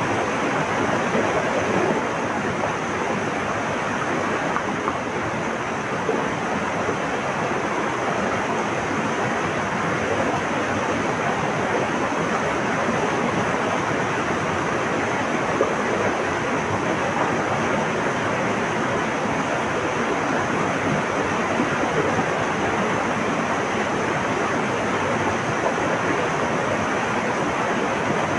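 Flowing water rushing steadily, an even, unbroken rush with no distinct bird calls standing out.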